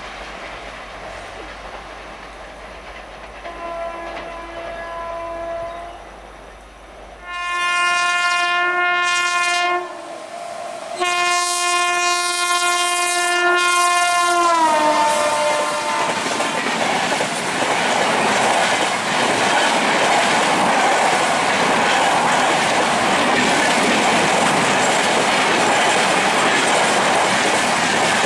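Indian Railways locomotive horn and a passing express train. A faint horn blast is followed by two long, loud blasts, and the second one drops in pitch as the locomotive goes by. Then comes the loud, steady rush and rattle of the coaches passing at speed.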